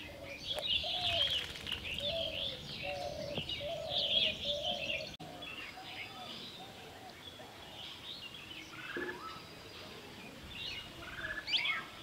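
Wild birds chirping and twittering in quick, high, pitch-bending calls, with a lower call repeated over and over beneath them. The calls are louder for the first five seconds and softer after that.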